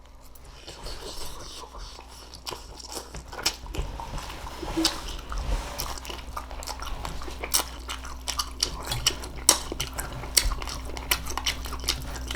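A person chewing cooked green beans close to the microphone, with many short sharp crunches and mouth clicks that come thicker after the first few seconds, over a steady low hum.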